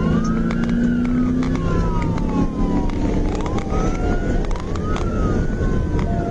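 Police car siren in wail mode, its pitch rising and falling slowly in long sweeps, over the patrol car's engine and road noise at speed.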